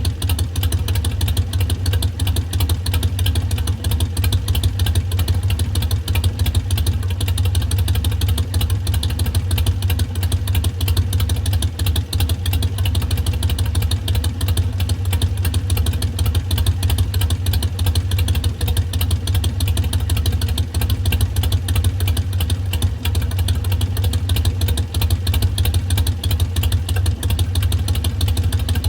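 2019 Harley-Davidson Sportster Iron 883's air-cooled V-twin idling steadily through Vance & Hines Twin Slash slip-on mufflers, with the lumpy three-beat 'potato' idle of a Harley twin.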